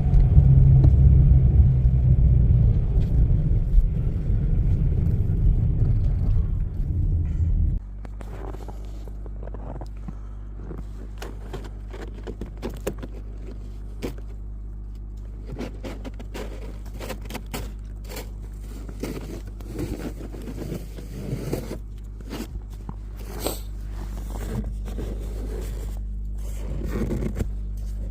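Car cabin noise: loud low road and engine rumble for about eight seconds, then an abrupt drop to a quieter steady low engine hum with scattered scrapes and clicks.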